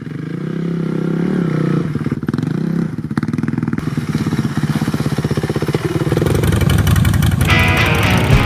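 Motorcycle engine running with a fast pulsing beat, fading in at the start and growing louder. Music comes in near the end.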